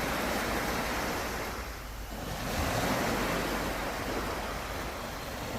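Sea waves breaking and washing up on the shore, surging twice, with wind on the microphone.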